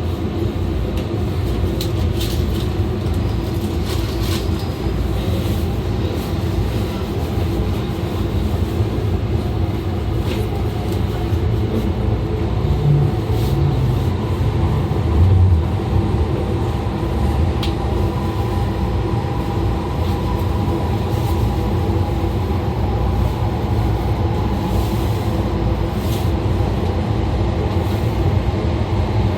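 E2 series Shinkansen running at speed, heard from inside on board: a steady rumble of wheels and track with a continuous hum from the Mitsubishi IGBT-driven traction motors, and a few faint ticks.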